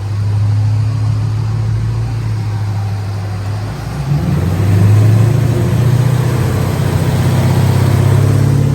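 A motor running with a steady low hum, its pitch and load shifting about four seconds in.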